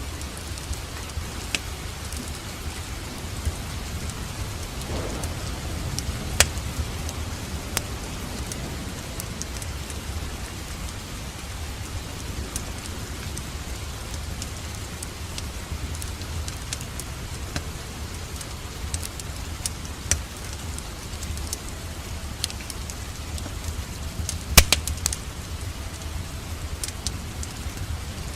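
Steady rain mixed with a crackling wood fire: an even hiss with a low rumble underneath and scattered sharp pops, two of them louder, about six seconds in and near the end.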